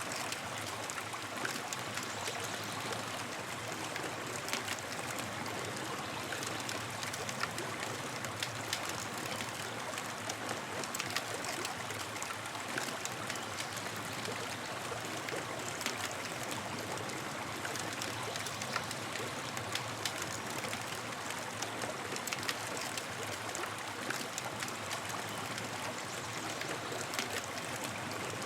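Campfire burning, with a steady hiss and frequent small, sharp crackles and pops scattered throughout.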